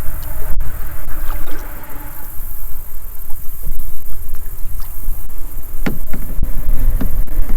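Kayak paddling on a river: paddle strokes dipping and splashing in the water, over a heavy, uneven low rumble of wind on the microphone.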